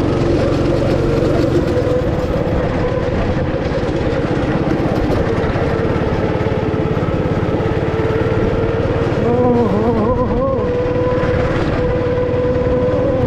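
Go-kart engine running loud and steady under throttle. Its note dips and rises briefly about three quarters of the way through as the throttle eases and opens again.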